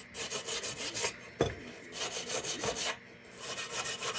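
Brass wire brush scrubbing the tin of an old lantern in rapid back-and-forth strokes, in three bursts, with one sharp knock after the first burst. This is test-brushing to gauge the metal's condition under the old silver paint.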